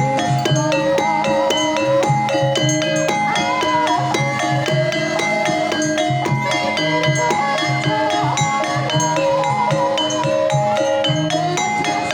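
Javanese gamelan playing: metallophones strike a steady stream of short pitched notes over kendang drumming.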